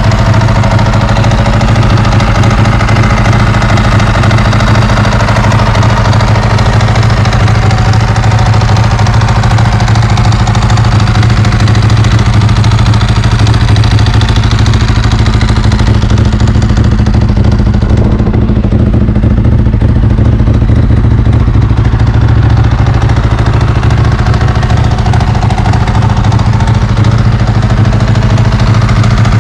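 Ducati 916's V-twin engine idling steadily, with a deep, even beat. The sound turns briefly duller about two-thirds of the way through, then returns.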